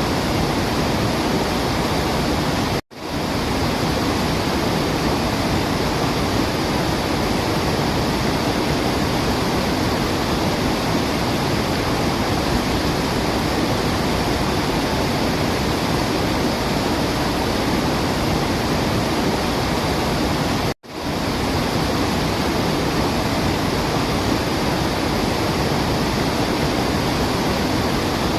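Steady, even rush of a waterfall, broken twice by a split-second gap of silence, about three seconds in and again about twenty-one seconds in.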